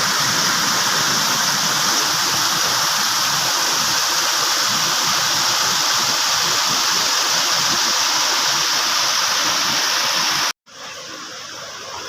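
Water rushing steadily, like a waterfall's constant falling flow. About ten and a half seconds in it cuts out abruptly, then the rush continues more quietly.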